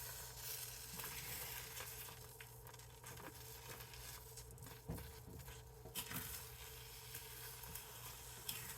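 Eggs sizzling faintly in a frying pan, with a few light scrapes and taps of a spatula against the pan.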